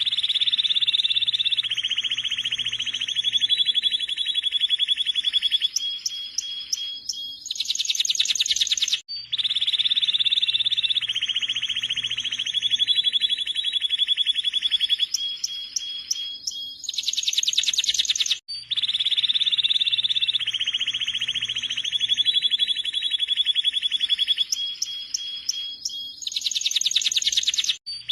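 Domestic canary singing long, rapid rolled trills, alternating between lower trills and faster, higher ones. The same roughly nine-second passage repeats three times, breaking off abruptly between repeats.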